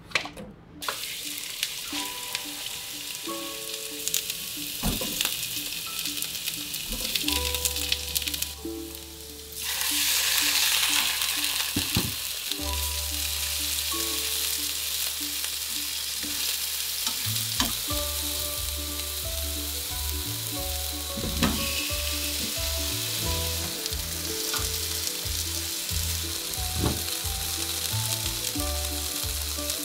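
Onions, cod pieces and potato chunks sizzling as they fry in a non-stick frying pan, with occasional taps of tongs against the pan. The sizzle gets louder about ten seconds in.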